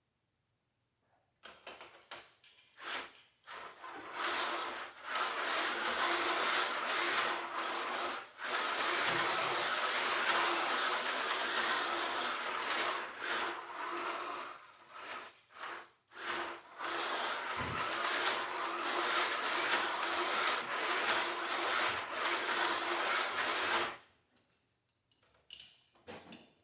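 HO-scale slot car running laps on a plastic track: a steady buzzing whine of the small motor and the rattle of the car in the slot. It starts about a second and a half in, drops out briefly a few times, and stops a couple of seconds before the end.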